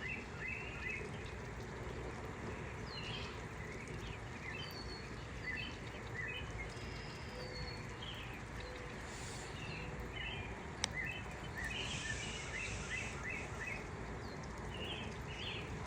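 Small birds chirping and twittering in many short, quick calls, with a few brief whistled notes, over a steady low rumble. A single sharp click about eleven seconds in.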